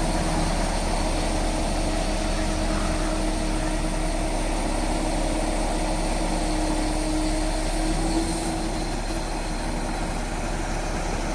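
Mobile crane's engine running steadily, a continuous heavy hum that drops slightly in level about eight seconds in.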